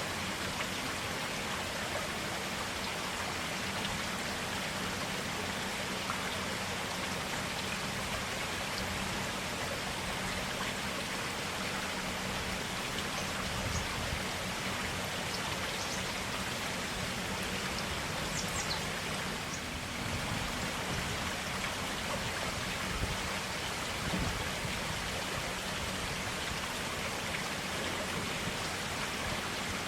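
Clear stream water flowing steadily, an even, unbroken rush of water.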